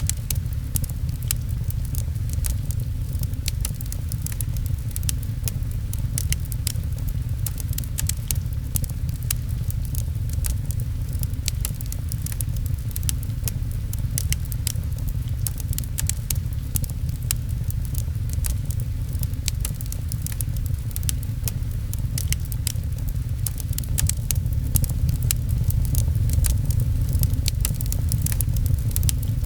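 Fireplace crackling with many small sharp pops over a steady low rumble and the patter of rain, all growing a little louder near the end.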